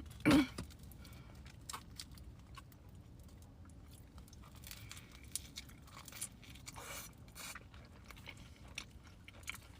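Close-up chewing and biting of pizza, with small crunches and wet mouth clicks. Just after the start there is one short, loud voice-like sound.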